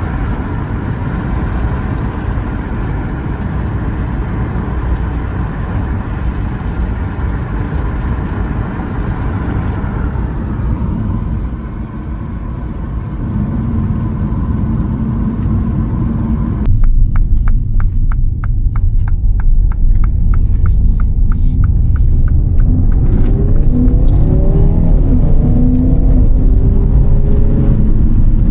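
Car driving along a road: steady engine and road rumble, which turns suddenly louder and deeper about two-thirds of the way through. Regular ticking follows for several seconds, then the engine pitch rises several times as the car accelerates.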